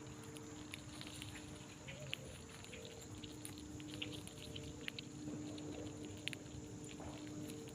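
Faint, scattered small clicks and light patter, typical of a small animal feeding, over a steady low hum.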